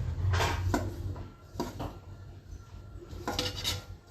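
A few light knocks and clatters of kitchen utensils and vessels being handled, over a low steady hum.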